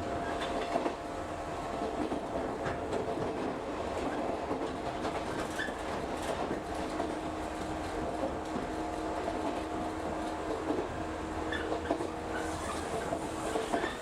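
Interior running noise of a local electric train under way: a steady rumble with a constant hum, and wheels clicking over rail joints now and then.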